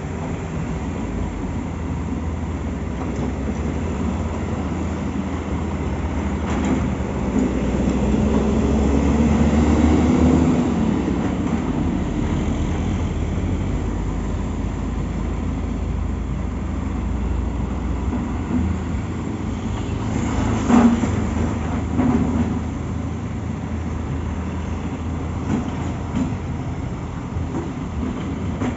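Heavy diesel engines running with a steady low rumble, swelling louder and rising in pitch about eight to ten seconds in, with one sharp knock about twenty seconds in.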